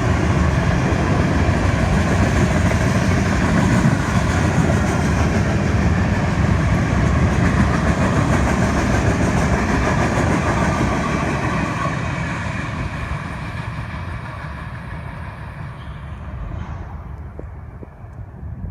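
Florida East Coast Railway mixed freight train's cars rolling past on the rails, a steady dense rumble with some clickety-clack. About two-thirds of the way through it begins to fade away as the train draws off.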